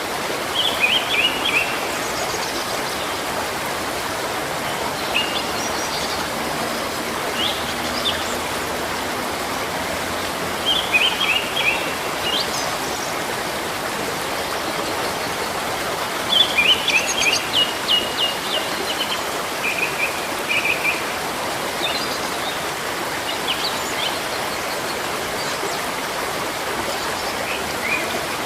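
Steady rush of running stream water, with songbirds chirping in short bursts of quick high notes every few seconds.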